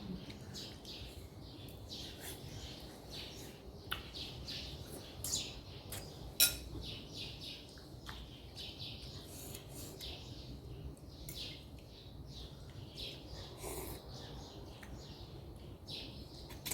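Close-up eating sounds: chewing with many quick, irregular wet mouth clicks, and a sharp clink of a utensil about six seconds in.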